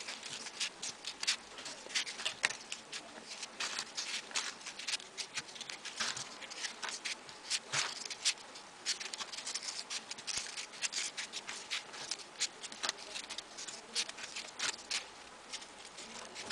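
Folded paper origami pieces being pushed into place on a modular model: a continuous run of small, irregular paper clicks and rustles, several a second.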